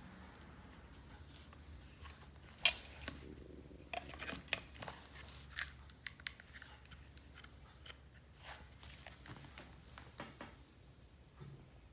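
Small sharp clicks and taps of an iPod Video's case and parts being handled during a battery swap, with one louder snap about two and a half seconds in and a run of lighter clicks after it.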